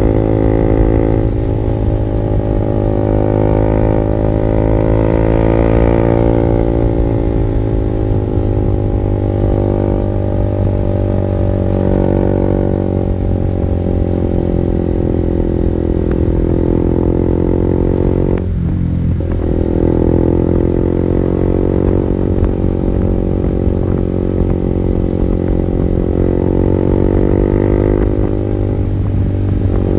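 Honda CB150R's single-cylinder engine running through an R9 Alpha Series aftermarket exhaust, a steady, droning exhaust note. The pitch rises and eases gently a few times, with a brief drop in the note a little past halfway.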